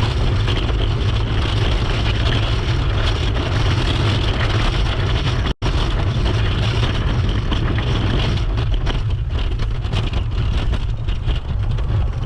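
Steady rumble and hiss of scooter wheels rolling over snow, mixed with wind buffeting the microphone. The sound cuts out completely for an instant about halfway through.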